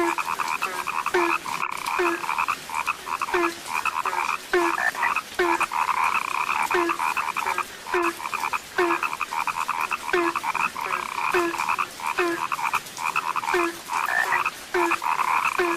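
A dense chorus of many frogs calling and croaking, the calls overlapping continuously. One lower-pitched croak repeats steadily about every two-thirds of a second beneath the higher chorus.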